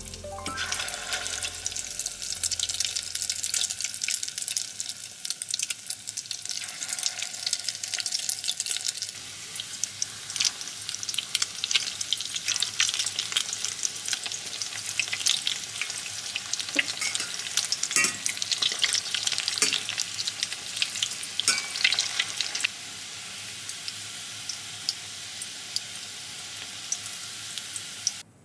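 Egg-coated cauliflower florets sizzling and crackling as they fry in hot oil in a stainless steel pot. A few sharp clicks come in the middle as tongs turn the pieces.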